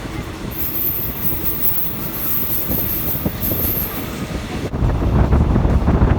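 Passenger train running on the rails with a steady rumble and a thin, high wheel squeal for a few seconds. About four and a half seconds in, loud wind buffeting on the microphone suddenly takes over.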